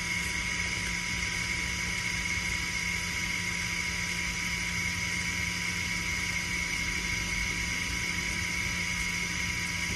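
Steady mechanical hum with a constant high whine over a low rumble, unchanging throughout; no pump strokes or clicks are heard.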